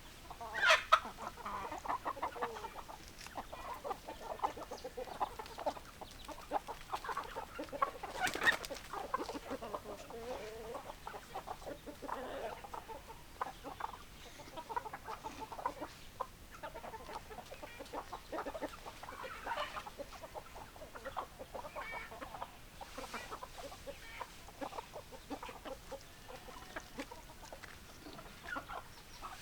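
Chickens clucking continuously, a flock of hens calling in short overlapping clucks, with a louder call about a second in and another around eight seconds in.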